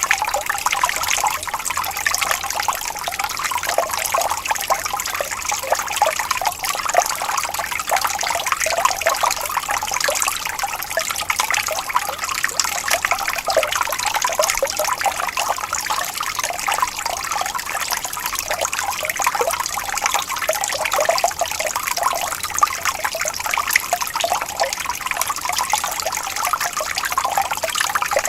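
Water trickling and babbling steadily over stones in a small stream, a continuous splashy gurgle with no pauses.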